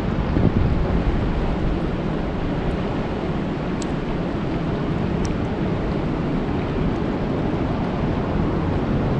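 Steady rain falling on a lake, an even wash of noise heaviest in the low end, with a couple of faint ticks in the middle.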